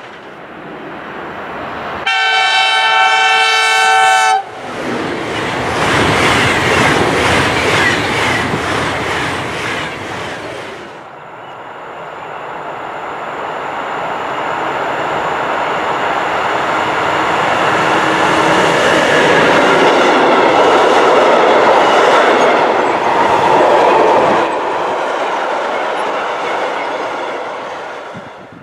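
A train horn sounds one chord for about two seconds, cut off sharply. Then a train runs past with rhythmic clickety-clack of wheels over the rail joints. After that an electric locomotive hauling a freight train approaches and passes, the wheels and wagons clattering louder and louder before fading away.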